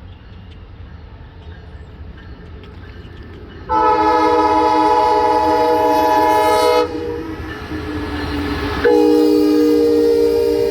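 Locomotive multi-chime air horn sounding two long blasts, the first about four seconds in and the second near the end, over the low rumble of an approaching train that grows louder between them.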